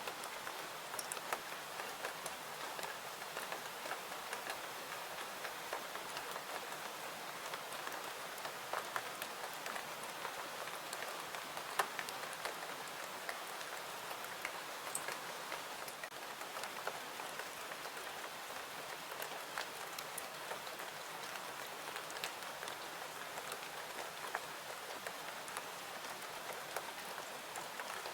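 Steady rain falling, an even hiss with scattered sharp clicks of drops, one louder click about twelve seconds in.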